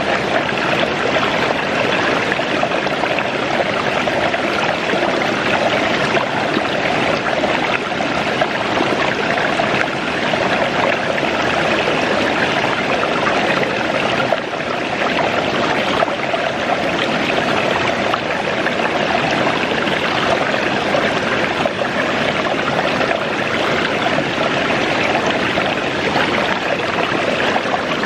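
Waterfall running steadily: a continuous, even rush of falling water.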